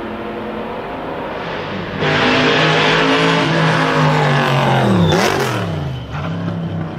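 Shelby Daytona Cobra Coupe's V8 exhaust running, turning sharply louder about two seconds in. The engine pitch sags, then drops sharply and picks up again around five seconds in, and the sound eases off near the end.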